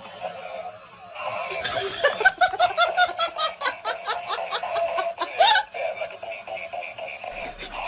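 Laughter: a fast run of short 'ha' pulses, about five or six a second, lasting about four seconds and stopping abruptly.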